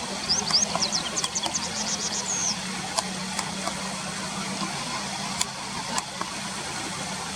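Japanese wagtail calling: a quick run of high, sharp chirps in the first two and a half seconds, then a few single ticks. Under it runs a steady low engine-like hum.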